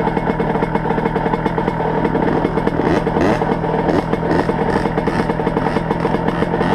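Motocross motorcycle engine running, its pitch rising a few times around the middle as it is revved.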